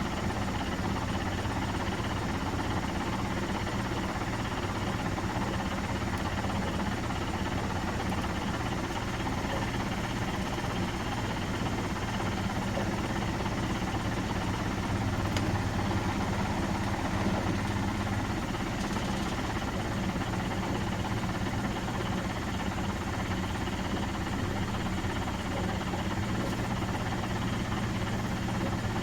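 Miele Professional WS5436 washing machine running steadily, with a constant motor hum.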